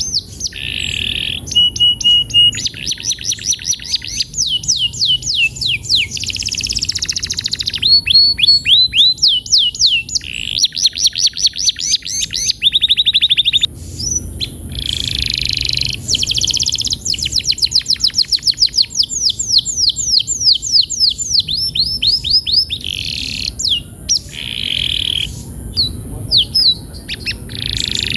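Domestic canary singing a long, continuous song: fast trills of quickly repeated rising notes that switch to a new phrase every second or two, mixed with short buzzy rolls held on one pitch.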